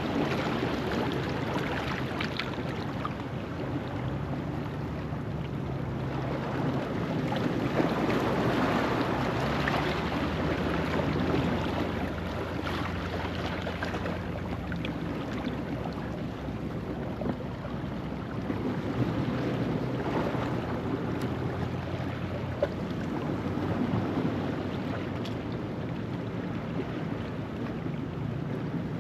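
Ocean waves washing over a rocky shoreline at low tide: a continuous surf wash that swells and eases every few seconds, loudest a few seconds in.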